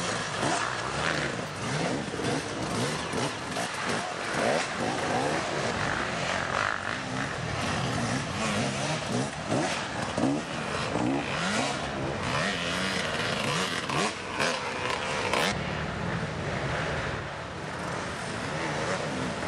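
Several dirt bike engines racing, revving up and down over and over as the bikes accelerate and shift, with their pitches overlapping.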